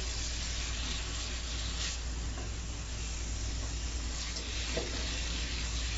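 Chicken, capsicum and onion sizzling steadily in a wok as they are stirred with a wooden spatula, with a couple of faint scrapes of the spatula against the pan.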